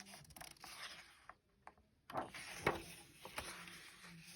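Soft paper rustling from a picture book's page being handled and turned, in two spells with a few light clicks and taps.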